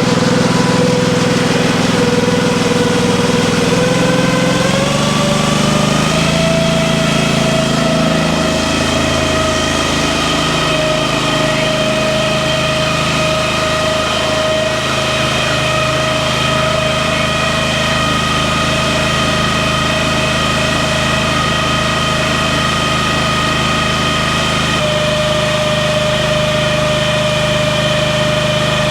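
Farm machinery engine running under load during grain loading, its pitch climbing between about four and six seconds in, then holding steady with a whine.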